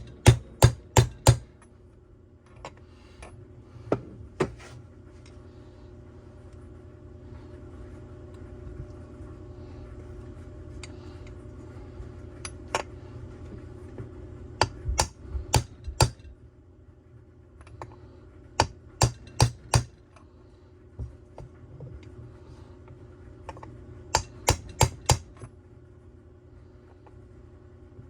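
A hammer tapping on a socket that serves as a seal driver, driving a crankshaft seal into the crankcase of a Stihl TS 400-type cut-off saw. The sharp metal taps come in short groups of two to five with pauses between, over a steady low hum.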